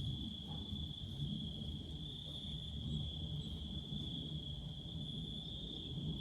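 Steady chorus of insects holding a single high pitch, over a low, uneven rumble.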